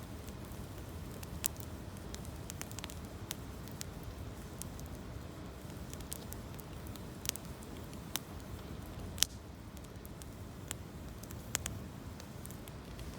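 Wood campfire of gathered branches and fallen leaves burning, with irregular sharp pops and crackles over a steady low rush.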